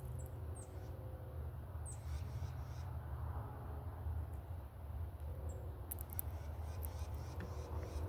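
Small birds giving short, sharp, high chip notes that slur downward, a few times, over a steady low rumble.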